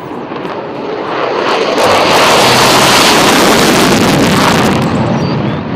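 Jet fighter plane sound effect: a loud rush of jet noise that builds over the first two seconds, holds, and eases slightly near the end.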